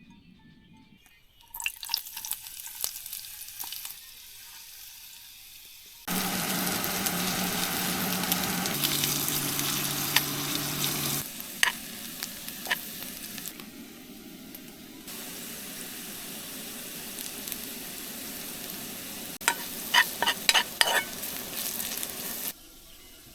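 Food sizzling as it fries in a pan, with a utensil stirring and clicking against the pan. It comes in several short cuts that start and stop abruptly, the loudest in the middle, with a quick run of clinks near the end.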